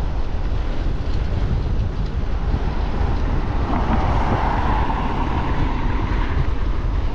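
Wind buffeting the microphone of a moving e-bike: a steady, heavy low rumble, with a broader hiss swelling up about halfway through.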